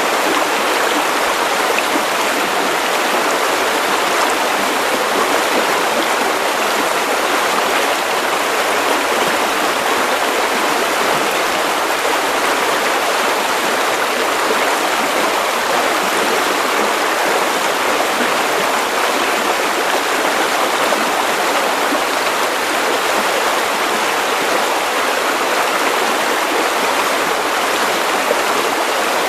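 Steady white noise: an even, unchanging hiss with little deep rumble, with no breaks or changes.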